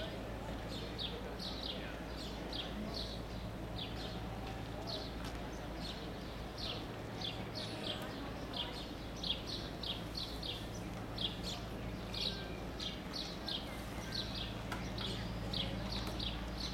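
Small birds chirping over and over, short high chirps coming about two a second, over a steady low hum.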